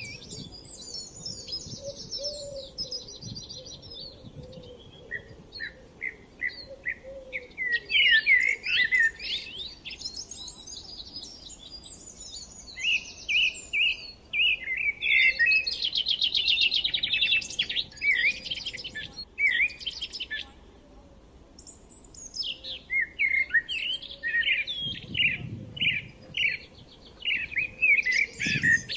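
Forest songbirds chirping and singing, in bursts of short repeated chirps and fast trills from several birds, with brief lulls between phrases.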